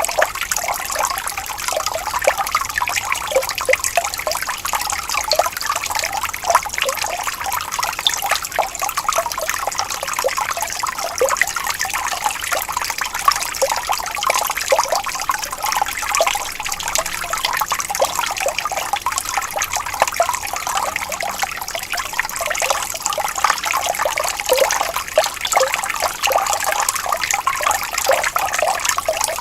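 Water trickling and flowing gently over stones, a steady babble of small splashes that never lets up.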